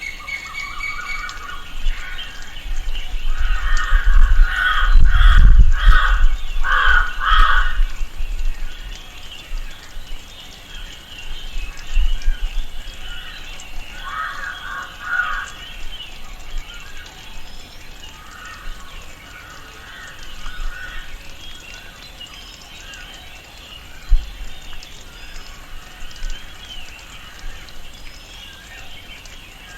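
Tropical rainforest ambience: a steady background chorus of birds and insects, with groups of harsh, repeated cawing bird calls that are loudest about four to eight seconds in and come back more softly around the middle. A few dull low thumps stand out.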